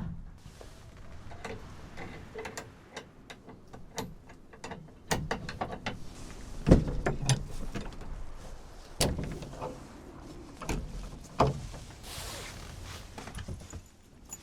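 Irregular clicks and knocks from objects being handled, with the loudest thump about seven seconds in and a short hiss near the end.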